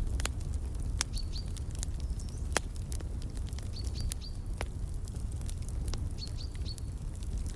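Wood fire crackling, with scattered sharp pops over a steady low rumble, while a small bird chirps high, in three quick runs of two or three notes.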